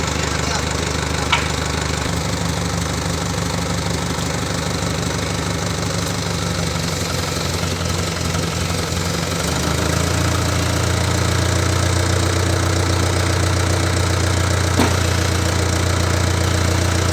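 Moshito 25 kVA water-cooled diesel generator engine running steadily; about ten seconds in its low note grows louder. Two brief clicks sound over it, one near the start and one near the end.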